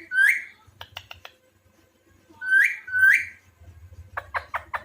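Alexandrine parakeet giving short rising whistles: one at the start, then two in quick succession about two and a half seconds in. Near the end comes a quick run of about six short clicking sounds.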